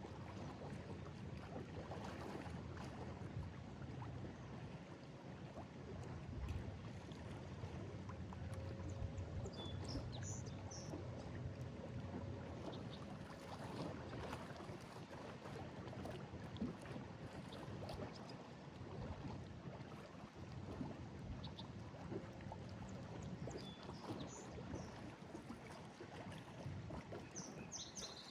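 Lake Erie waves washing and lapping against a breakwall, a steady churning wash that swells and eases. A few brief high chirps sound about a third of the way in and again near the end.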